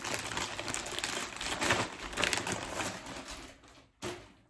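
Irregular crinkling and rustling handling noise, fading out near the end, followed by a single short click.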